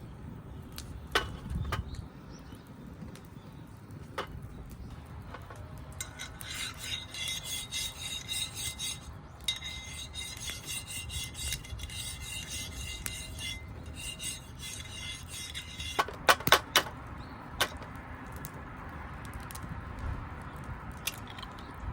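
Metal cookware and utensils clinking and knocking: scattered sharp clicks, with a quick run of louder clinks about three-quarters of the way through. A faint high ringing holds for several seconds in the middle.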